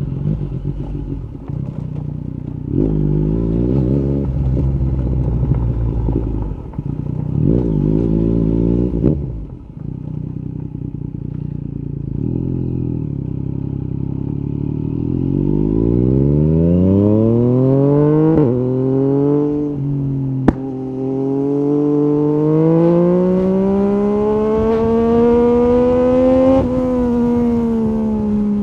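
Yamaha 890 cc three-cylinder motorcycle engine through an Akrapovic carbon exhaust with the dB killer out. It runs low with two short throttle blips, then accelerates hard with the revs climbing steadily through an upshift. There is a single sharp click partway through, and another shift near the end.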